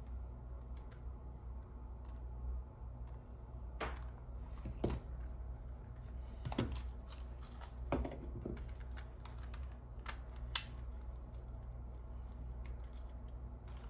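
Scattered small clicks and taps, about six in all, from handling a camera and a freshly repaired Sony SELP1650 lens during its function check, over a steady low hum.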